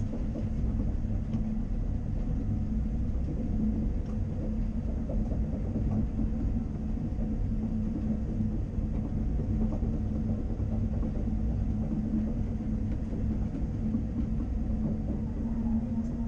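CAT 330 Next Generation excavator's diesel engine running steadily while working, a constant low rumble with a held engine note.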